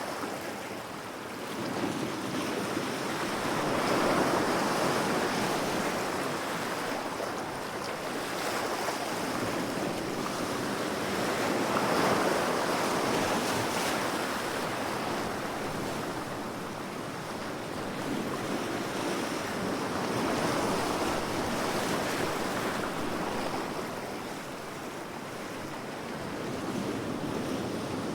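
Ocean waves breaking and washing on a shore, a steady surf noise that swells and ebbs slowly, with a louder wave about every eight seconds. Some wind on the microphone.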